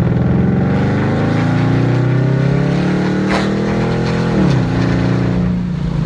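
Car engine and exhaust accelerating, the pitch climbing steadily through a gear, then dropping sharply at an upshift about four and a half seconds in and settling.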